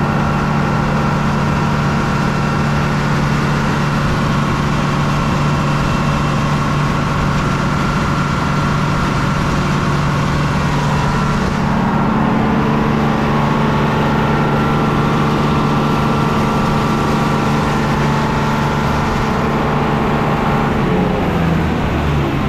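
Meadows circular sawmill and its sawdust blower running steadily at speed, a loud machine hum with several steady tones, being tested after a blockage in the dust blower was cleared. In the last couple of seconds the pitch falls as the machine begins to wind down.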